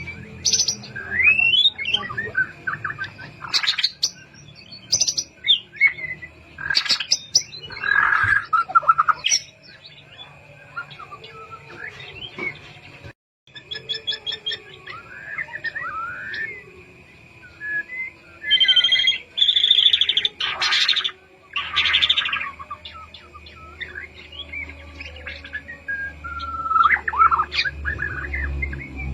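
White-rumped shama singing a varied song of loud whistled phrases that sweep up and down, with short pauses between phrases.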